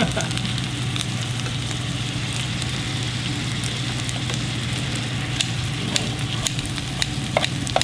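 Duck-fat fried rice sizzling steadily in a metal pan on a tabletop burner, with metal tongs clicking and scraping against the pan now and then, more often in the second half.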